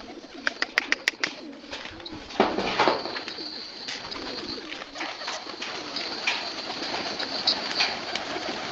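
Domestic Shami pigeons cooing. A quick run of sharp clicks comes in the first second, and a brief rush of noise about two and a half seconds in.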